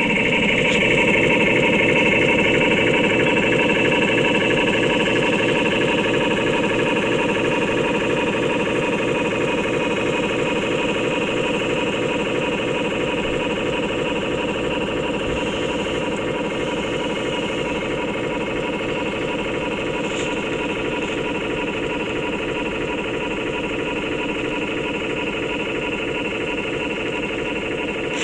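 RC model tug's sound unit playing a simulated diesel engine, running steadily with an even rhythmic chug and a steady whine above it, gradually getting quieter.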